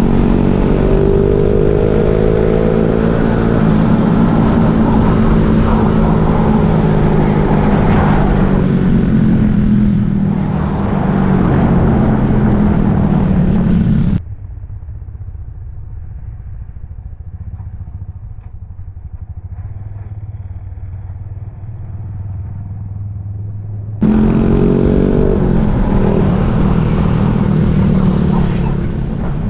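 Suzuki Raider J 115 Fi motorcycle's single-cylinder four-stroke engine running while riding, with wind rush on the helmet camera. The engine pitch climbs as it accelerates at the start and again after the sound abruptly turns muffled and quieter for about ten seconds.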